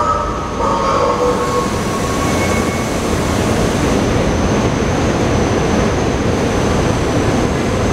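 SEPTA Regional Rail electric train rolling alongside the platform at low speed. Its wheels squeal briefly at the start, then it settles into a steady rumble with a thin, high steady whine.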